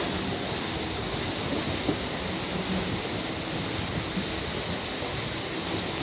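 Mumbai suburban electric local train running with a steady rumble and hiss, a single light knock about two seconds in.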